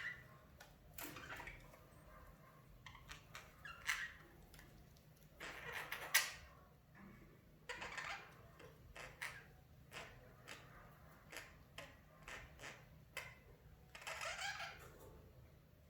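Budgerigars chirping: a faint run of short, scattered chirps and clicks, with a longer call near the end.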